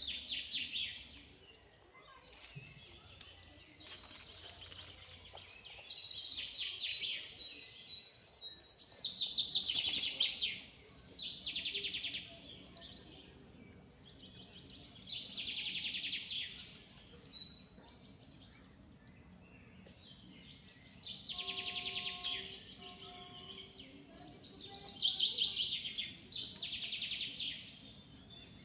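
Birds calling in harsh, rattling bursts, each a second or two long and repeated every few seconds.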